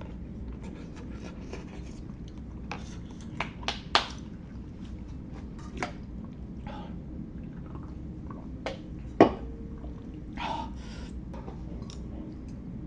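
Close-up eating sounds of hot pot noodles and soup: chewing and slurping, with scattered sharp clicks and taps, the loudest about nine seconds in.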